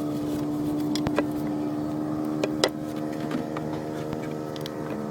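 A motor running steadily with an even hum, with a few sharp clicks about a second in and again around two and a half seconds in.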